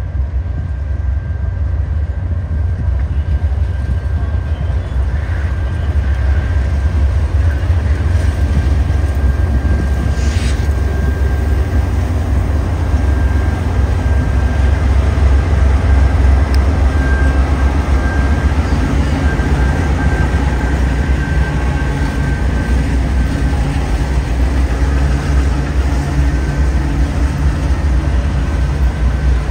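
Train running close by: a loud, steady low rumble with a thin steady high tone over it and a single sharp clank about ten seconds in. An engine-like hum grows in the last third.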